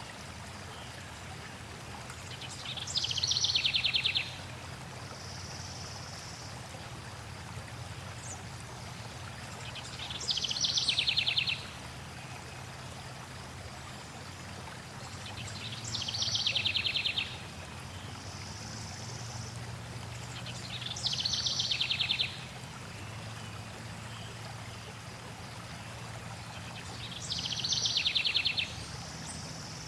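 A songbird repeats a short, rapid trill that falls in pitch, five times, about every six seconds, over a steady flow of running water.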